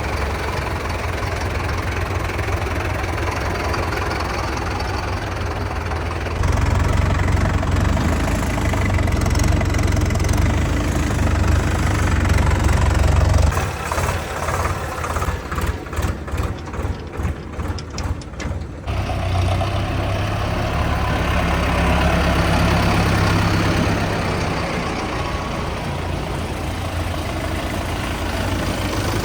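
Diesel tractor engine running steadily, with a stretch in the middle where it pulses in a quick, even rhythm; the sound changes abruptly twice.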